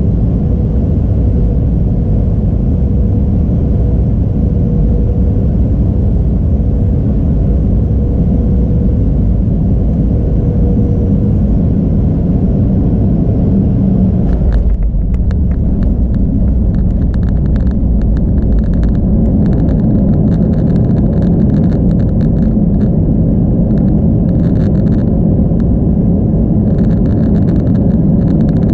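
Steady low rumble inside a passenger jet's cabin, with a faint steady tone that fades out in the first half. From about halfway on, a scatter of light ticks sits over the rumble.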